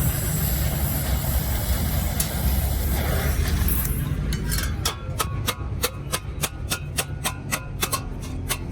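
A low rumbling noise for the first few seconds, then a hammer striking metal in a rapid, even rhythm of about four or five blows a second, each blow with a short metallic ring.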